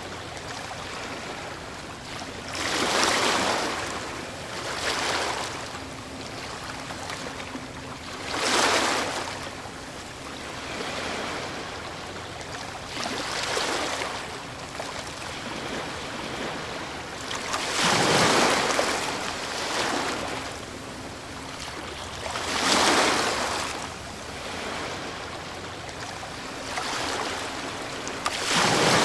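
Ocean waves breaking, a surge of surf washing in every few seconds over a constant hiss of water.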